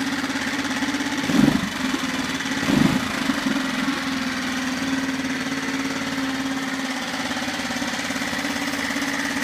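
SeaNovo 2.5 hp four-stroke single-cylinder outboard motor running steadily out of gear. There are two brief louder bumps about a second and a half and three seconds in.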